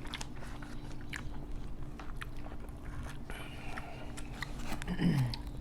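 Close-up eating sounds of a person chewing a mouthful of rice and cabbage, with irregular wet smacks and small clicks. About five seconds in, a short falling hum of the voice is heard.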